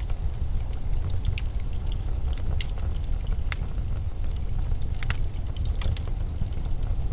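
Blizzard wind as a steady low rumble, with scattered sharp crackles and ticks.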